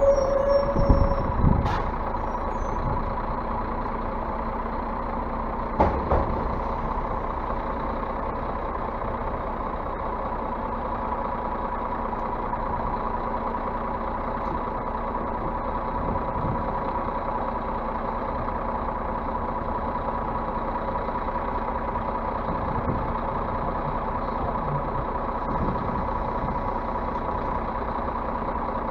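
Scania bus engine idling steadily, with a few knocks in the first couple of seconds and one sharp knock about six seconds in.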